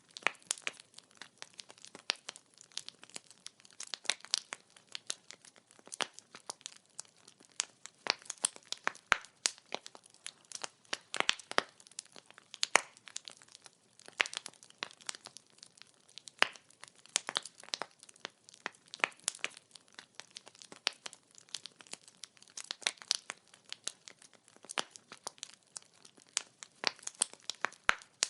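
Burning firewood crackling, with irregular sharp snaps and pops several times a second over a faint hiss.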